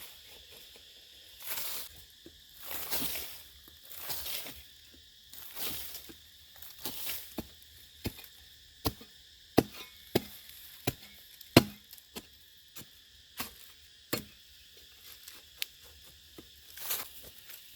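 Irregular sharp chopping knocks, denser and louder in the second half, after softer scraping and rustling sounds; a steady high insect drone underneath.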